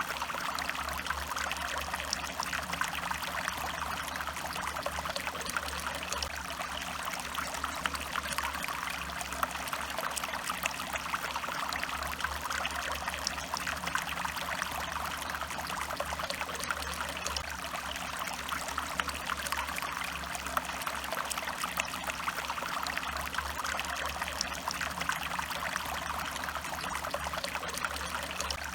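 Stream water flowing steadily, a continuous rush of running water with no pauses or changes.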